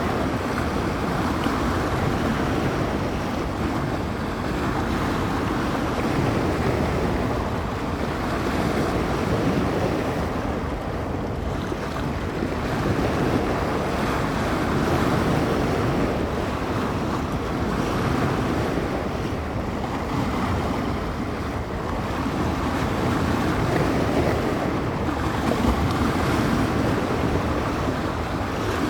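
Waves on a bay washing and breaking ashore in a continuous rush that swells and eases every few seconds, with wind blowing across the microphone.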